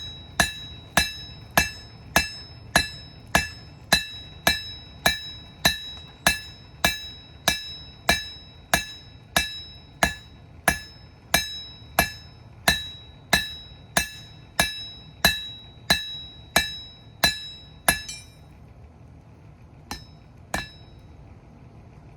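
Blacksmith's hand hammer forging a hot rebar blade on an anvil: steady, even blows, a little under two a second, each with a bright metallic ring. The hammering stops about 18 seconds in, and two lighter strikes follow a couple of seconds later.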